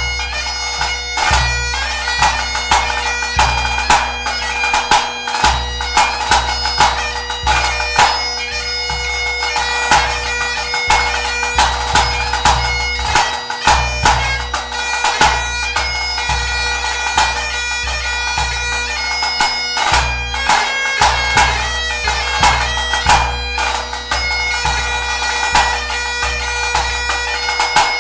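Great Highland bagpipe playing a tune over its steady drones, with a pipe band bass drum beating time in deep, regular strokes under it.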